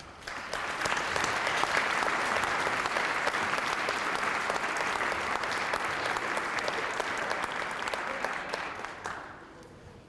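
Audience applauding, a dense clatter of many hands that swells up at once and dies away near the end.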